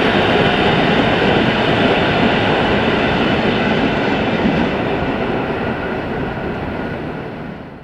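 Rolling noise of a train's vintage passenger coaches passing on the track, a steady roar of wheels on rails. It eases off from about halfway as the train moves away, then drops away sharply at the end.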